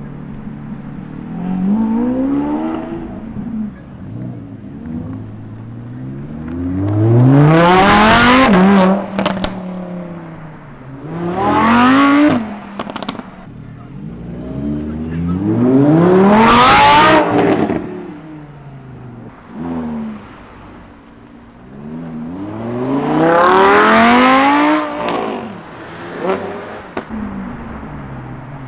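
Supercar engines accelerating hard on a street, in about five loud bursts. In each burst the engine note climbs steeply in pitch and then drops away.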